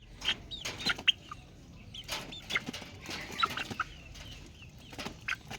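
Domestic chicks peeping in short, high calls, many of them in quick succession, with short taps mixed in among the calls.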